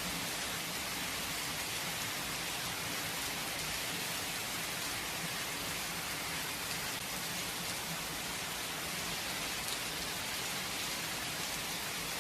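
Steady rain falling without thunder: an even, unbroken hiss of many drops hitting a surface.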